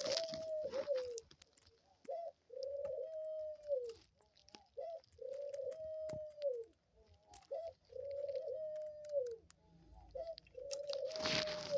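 A dove cooing: a repeated phrase of a short note followed by a long, held coo that drops in pitch at its end, given about four times, roughly every three seconds.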